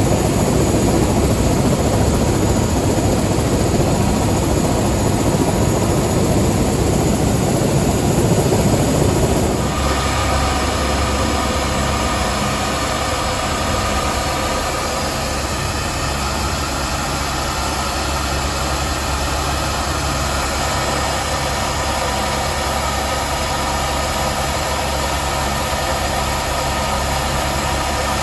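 Helicopter noise: a loud rushing roar, which changes abruptly about ten seconds in to a steady engine-and-rotor drone with a constant hum, as heard inside a helicopter's cabin.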